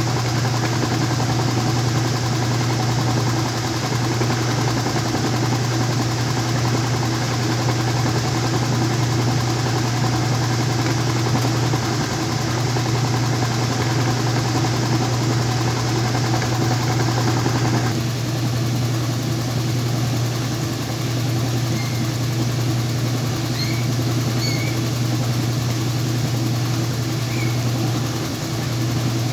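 Whirlpool washing machine in its spin cycle with sheets and pillows inside, a steady loud hum from the motor and drum. About two-thirds of the way through, the higher hiss over the hum drops away while the hum carries on.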